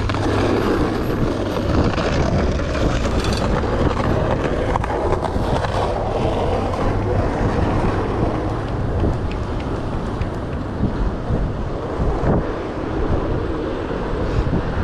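Wind rushing over a chest-mounted GoPro's microphone while cycling, a steady loud noise.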